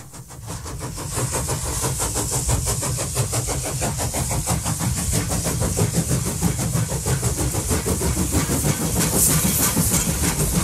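A slow-moving train passing close by, pulled by a diesel locomotive coupled behind a Thomas the Tank Engine replica: engine running with a rapid, even pulsing, plus hiss and rail noise. It swells up over about the first second, then holds steady.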